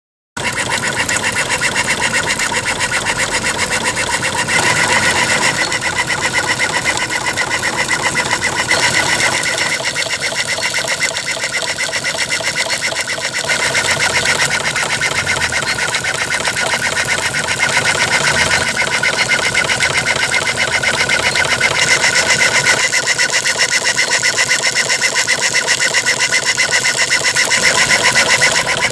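3-inch scale Burrell agricultural steam traction engine running, with a fast, even beat from its exhaust and motion work. The sound starts abruptly about a third of a second in.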